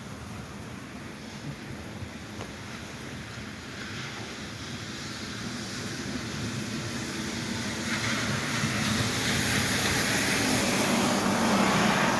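A vehicle passing on a wet road: the tyre hiss and engine sound grow steadily louder over several seconds, loudest near the end.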